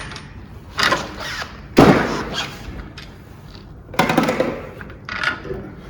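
A few separate knocks and clunks, the loudest about two seconds in, from handling the shock absorber's top nut and mount while its coil spring is held in a spring compressor.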